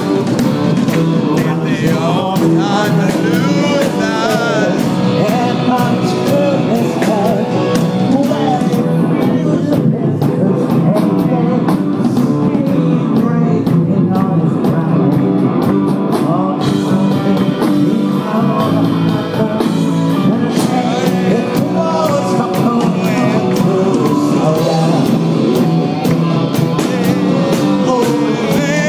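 Live rock band playing a steady, driving groove, with a wavering melody line over the top.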